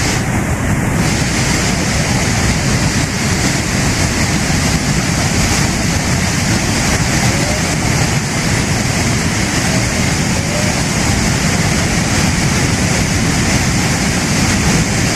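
A river in flood rushing past in a loud, steady wash of noise.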